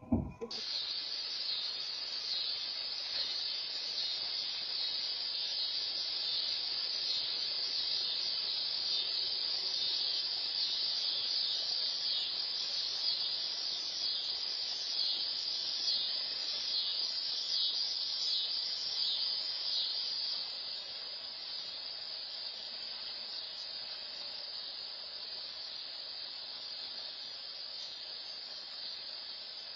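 Steady high-pitched insect chorus, crickets or cicadas, with a fine pulsing texture, getting softer about twenty seconds in.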